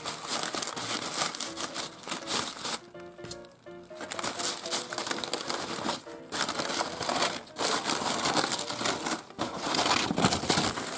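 Green crepe paper being crumpled and unfolded by hand: a crackly rustling that eases off briefly about three seconds in and again about six seconds in.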